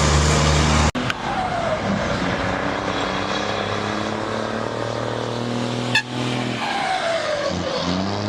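Heavy diesel truck engines running and revving in short spliced clips, with abrupt cuts about a second in and about six seconds in. The engine note falls in pitch twice.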